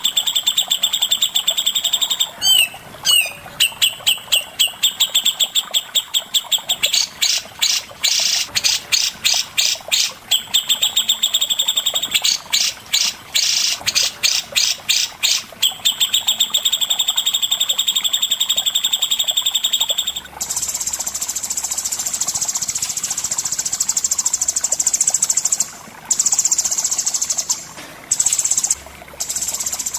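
Recorded song of cucak jenggot (grey-cheeked bulbul) and cendet (long-tailed shrike): a high, steady whistled trill broken by fast warbled runs of notes. About two-thirds of the way in it gives way to a harsh buzzing chatter that drops out briefly a few times near the end.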